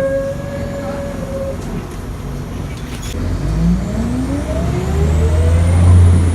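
Scania L94 bus with a ZF 5HP500 automatic gearbox. A steady whine stops about a second and a half in. From about halfway through, the engine and gearbox whine climbs in pitch and grows louder as the bus accelerates, loudest near the end.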